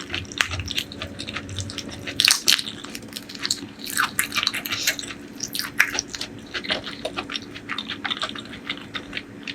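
Close-miked wet chewing and lip-smacking of someone eating curry and rice: a steady run of irregular soft clicks and squelches. A faint steady hum sits underneath.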